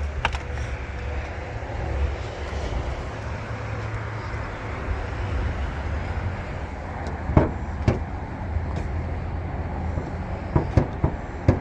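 Steady low vehicle rumble, with a couple of sharp clicks about seven and eight seconds in and a quick run of clicks near the end, as of car controls and latches being worked.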